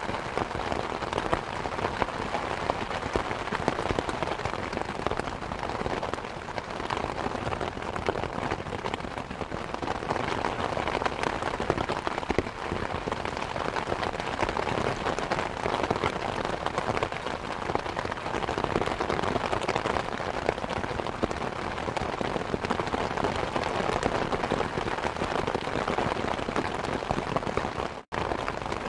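Steady rain mixed with a fireplace's crackling, a dense hiss with many small pops and snaps. The sound cuts out for a split second near the end.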